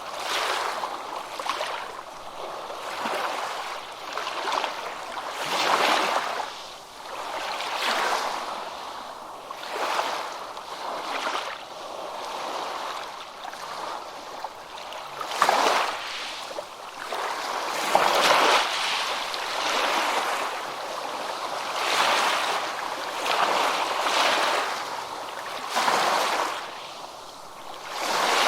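Ocean surf washing on a beach: waves break and run up one after another, the hiss of the water swelling and falling away every two to three seconds.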